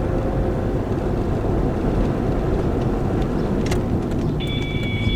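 Steady low rumbling noise. About four seconds in, a steady high two-note tone comes on and holds.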